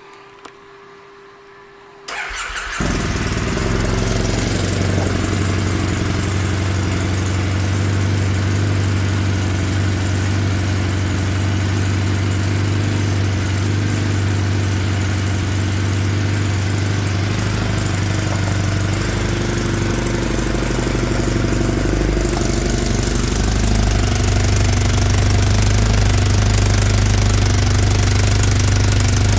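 2008 Triumph Bonneville T100's air-cooled parallel-twin engine started about two seconds in, catching within a second, then idling steadily. The idle gets slightly louder about two-thirds of the way through.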